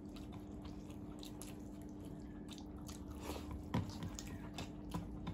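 Close-up mouth sounds of eating beguni (battered fried eggplant fritter) and rice: soft chewing with scattered crunchy clicks, a few sharper ones about three to five seconds in.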